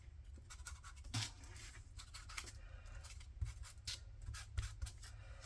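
Paper being handled and worked by hand: faint scratching and rustling with scattered small ticks.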